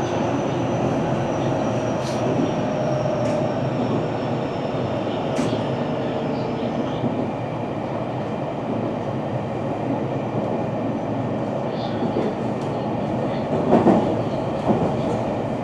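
JR Central 313 series electric train running, heard from inside its front motor car: a steady rumble of wheels on rail with a faint high whine slowly dropping in pitch. A few louder knocks from the wheels come near the end.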